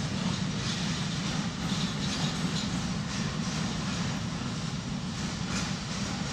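Intermodal freight train's container wagons rolling past, a steady rumble of wheels on rails with faint scattered clicks.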